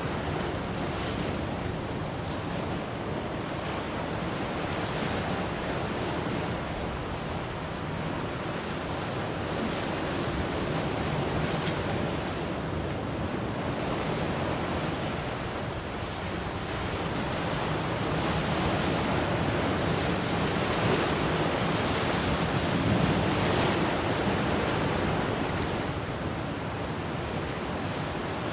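Ocean waves breaking and washing on shore in a continuous surf wash that swells and eases slowly, loudest a little past the middle, with some wind on the microphone.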